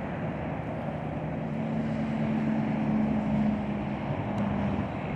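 Interstate traffic passing below an overpass: a steady rush of tyres and engines. A passing vehicle adds a low, steady hum from about a second and a half in until near the end, and wind buffets the microphone.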